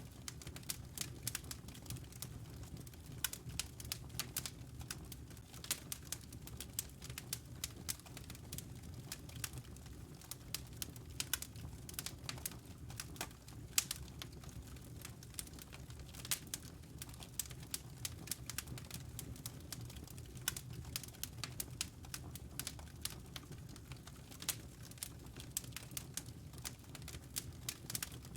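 Wood fire crackling in a fireplace: many sharp, irregular pops and snaps over a low, steady rumble.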